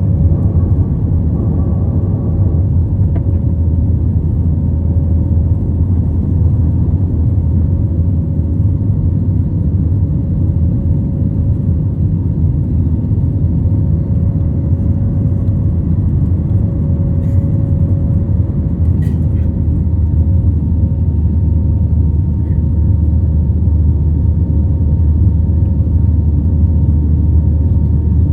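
Jet airliner cabin noise: a steady, loud low rumble of the engines and airflow heard from inside the cabin, with a faint steady hum running through it.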